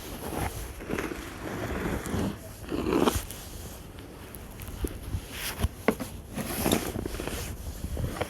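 Wind rumbling on the microphone, with a few irregular crunching noises.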